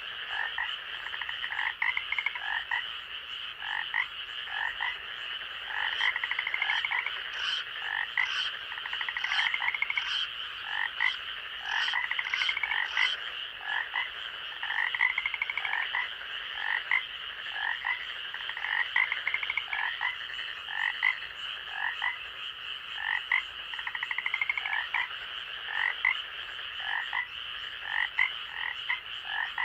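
Night forest chorus of frogs calling over and over, short croaks and pulsed rising notes overlapping, above a steady high-pitched drone. A run of brief high ticks joins in for several seconds a little after the start.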